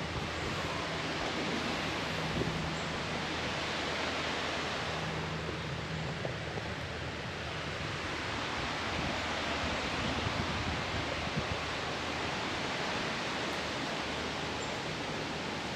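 Steady hiss of rushing water in the woods, an even, unbroken wash of noise.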